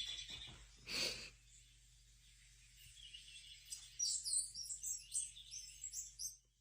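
Faint high chirps of small birds, a quick run of twittering calls through the second half, after a brief, short sound about a second in.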